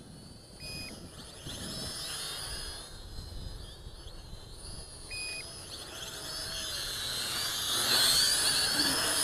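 Small quadcopter's motors and propellers whining, the pitch rising and falling as the throttle changes during manoeuvres, getting louder near the end. Two short beeps sound about a second and five seconds in.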